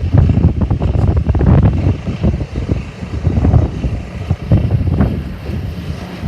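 Strong gusty wind buffeting the microphone: an uneven low rumble that swells and falls every second or so.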